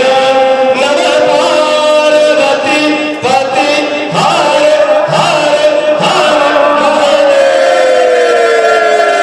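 A group of voices singing a Hindi devotional bhajan together with musical accompaniment. Near the end a held note slides steadily downward.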